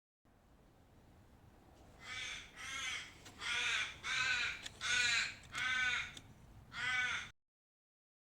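A bird calling: seven harsh, loud calls in a row, beginning about two seconds in, over faint background hiss that starts and stops abruptly.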